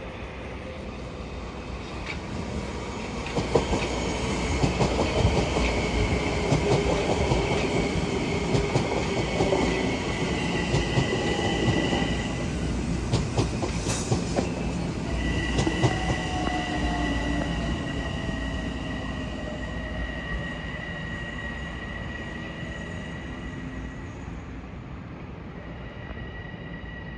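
A passenger train passing on the Metro-North line, wheels clacking over the rail joints with a high, steady wheel squeal. It grows louder over the first few seconds and then slowly fades as the squeal lingers.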